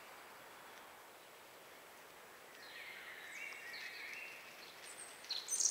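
Faint steady hiss with a faint bird call about halfway through: a high note that drops sharply and is then held lower for about a second. Sharper, louder high chirps begin just before the end.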